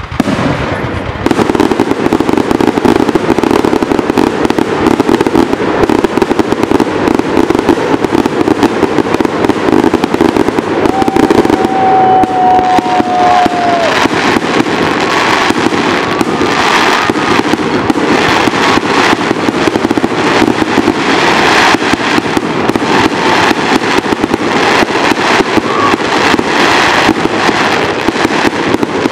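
Aerial fireworks shells launching and bursting in a dense, nearly continuous barrage of bangs and crackle.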